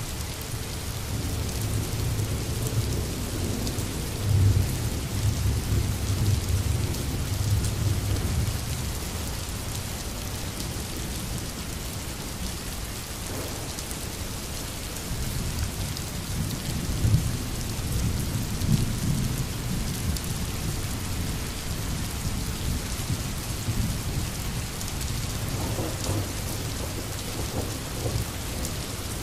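Steady rain hissing on a surface, with low rolling thunder that swells twice: once in the first third and again just past the middle.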